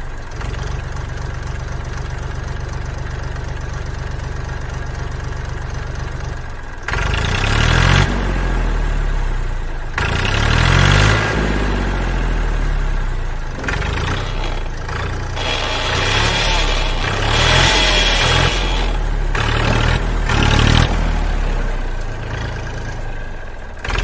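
An engine idling steadily, then revving up and down over and over from about seven seconds in, with bursts of hiss between the revs.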